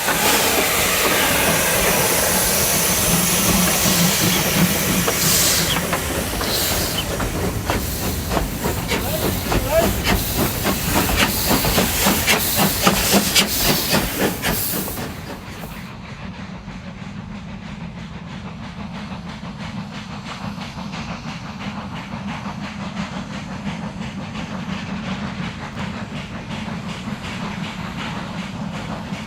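Narrow-gauge steam doubleheader working away from a start, with loud hissing steam and rapid exhaust beats. About halfway through, the sound drops sharply to a quieter, duller steady chuffing and running of the train.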